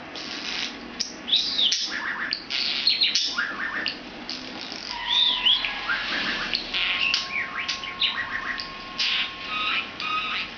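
Pet budgerigar chattering and warbling: a fast, continuous run of chirps, scratchy squawky notes and rising-and-falling whistles.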